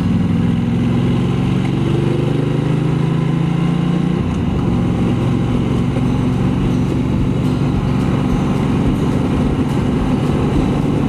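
Ducati Multistrada 1200S V-twin engine and exhaust under way. The note rises slowly for about four seconds, then drops to a lower, steady note.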